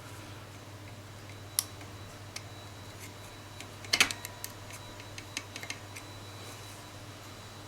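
Scattered small clicks and taps of hand tools and small parts being handled, the loudest a quick cluster about four seconds in, over a steady low hum.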